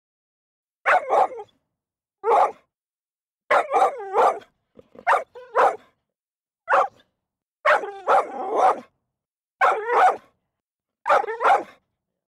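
A dog barking in short clusters, mostly pairs of barks, about eight clusters with dead silence between them. One longer run of barks comes just past the middle.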